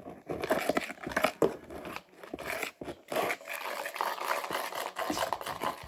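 Homemade glue slime being stirred and mashed with spoons in bowls: irregular wet squelches and small clicks of spoon against bowl.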